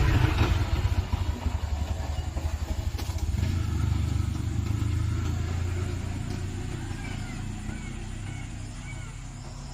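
A motor vehicle's engine rumble, loudest at first and fading away as it passes. Short bird calls come in over it in the second half.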